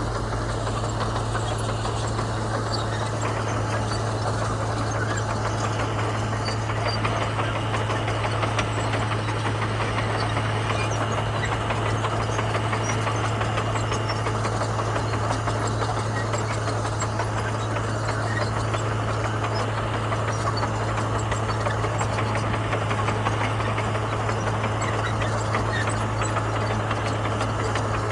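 Komatsu bulldozer's diesel engine running steadily, with a strong low hum and no change in pitch or level.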